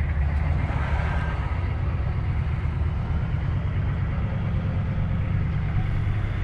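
A vehicle engine running steadily at idle, a constant low rumble.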